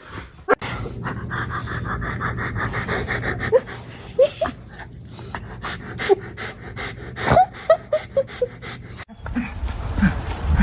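A dog panting rapidly, about five breaths a second, with a few short, high cries mixed in.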